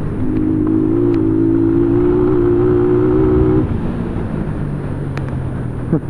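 Motorcycle engine running under way. It holds a higher, steady pitch for about three seconds, then drops back to a lower running note.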